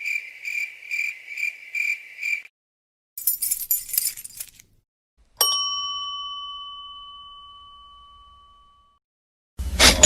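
A run of separate sound effects: a high, pulsing chirp at about three pulses a second that stops, then a short metallic jingle, then a single bell-like ding that rings away for about three seconds, and a loud, noisy burst with a low hum near the end.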